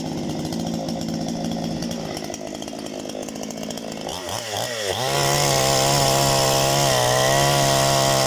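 Parma BP-058 two-stroke chainsaw idling, then revved up about four seconds in and held at high revs, running louder and steadily as it cuts into firewood.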